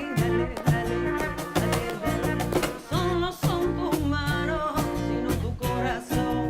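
Latin band playing live: a voice singing over strummed guitar with a steady beat.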